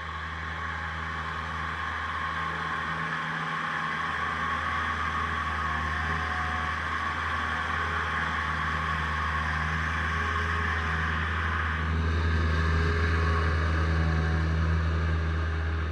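Bobcat 763 skid-steer loader's diesel engine running steadily under work, with a constant low drone and a whooshing hiss over it. The sound gets louder about twelve seconds in.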